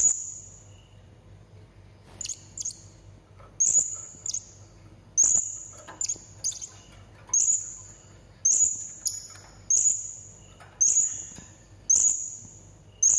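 Blue-crowned hanging parrot (serindit) giving sharp, very high-pitched calls, one or two short notes roughly every second, each starting abruptly and fading quickly.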